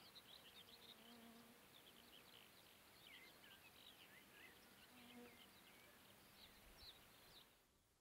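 Faint birdsong, many short high chirps from several birds over quiet meadow ambience, cutting off near the end.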